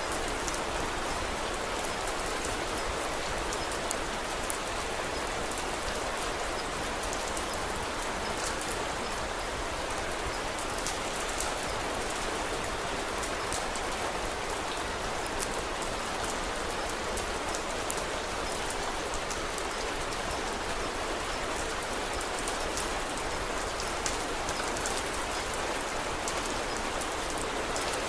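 Steady rain, with scattered sharp crackles and clicks from a wood fire.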